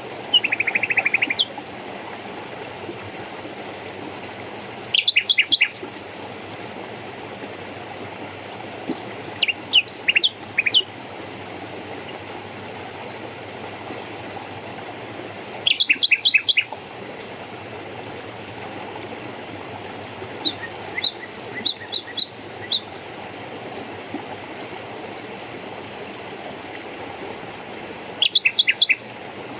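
A songbird calling in about six short bursts of rapid high notes, a few seconds apart, with a faint falling trill of thin notes in between, over the steady rush of a stream.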